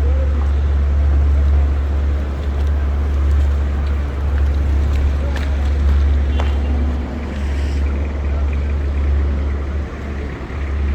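Wet city-street ambience picked up by an action camera: a heavy, steady low rumble on the microphone under a constant hiss, with a single sharp click about six seconds in.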